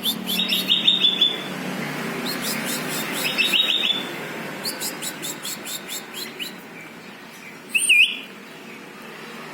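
Sooty-headed bulbul (kutilang) calling: bursts of rapid chirping trills in the first four seconds, then a run of quick high ticks, and one loud warbling note about eight seconds in.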